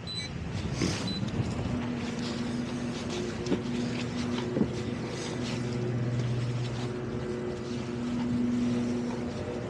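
Towboat engine running steadily at an even pitch, with a few sharp knocks in the first half.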